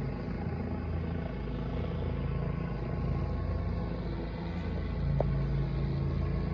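Helicopter flying over, a steady low drone of rotor and engine that swells slightly about five seconds in. A brief click near that point.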